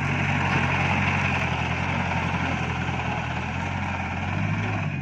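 Iseki NT554 tractor's diesel engine running steadily, its note shifting slightly near the end.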